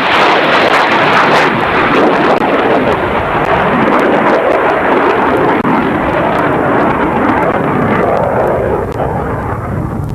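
Aircraft engine noise, a loud steady roar whose higher part fades over the last couple of seconds.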